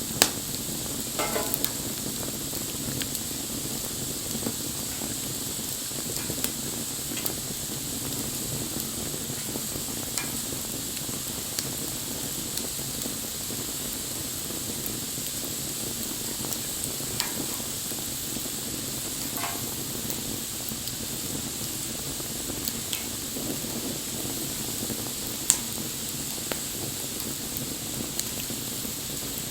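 Wood bonfire burning with a steady hiss and scattered crackles, with loud pops just after the start and about 25 seconds in.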